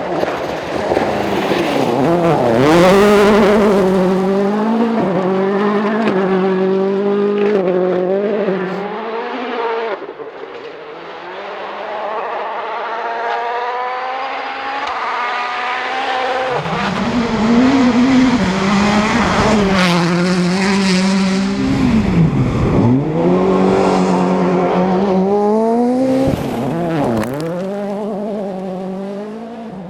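World Rally Car engines, turbocharged four-cylinders, at full throttle on a gravel stage. They rev up and drop back over and over through gear changes. The engine sound thins about ten seconds in and returns strongly a few seconds later as another car arrives.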